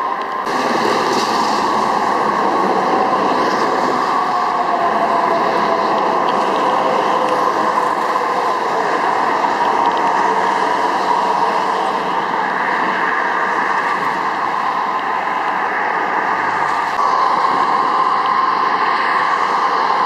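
Steady traffic noise from vehicles passing on a highway, continuous with a faint hum running through it.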